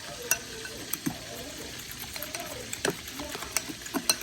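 Waffle batter being stirred in a bowl, the utensil knocking against the bowl in a few irregular sharp clicks over a steady faint hiss.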